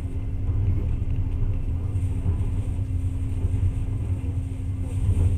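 Steady low rumble of a moving passenger train heard from inside the carriage, with a constant hum running under it.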